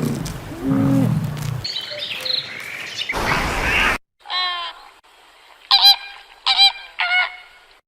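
A bird gives four short calls, each with a rich, rise-and-fall pitch: one about four seconds in and three in quick succession near the end. Before them, after a sudden cut, a lower pitched animal sound and a noisy stretch fill the first half.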